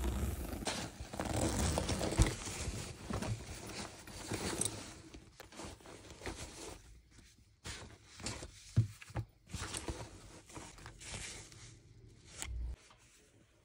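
Close handling sounds: dense rustling and tearing-like scraping for the first few seconds, then sparser small knocks and clicks.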